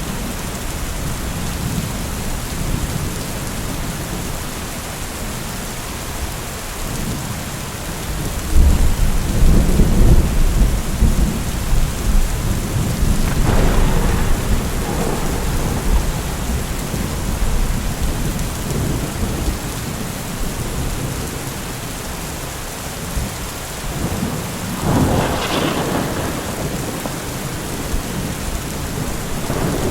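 Steady rain falling, with rolling thunder: a deep rumble swells up about eight seconds in and rolls on for several seconds, and a sharper crack of thunder comes near the end.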